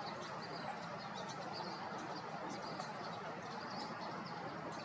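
Small songbirds chirping and singing: many short, high notes in quick succession over a steady background hiss.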